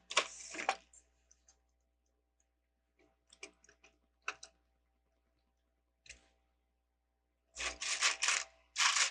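Plastic LEGO bricks clicking and clattering as pieces are handled and pressed together: a cluster of clicks at the start, a few scattered clicks in the middle, and a dense run of clatter near the end.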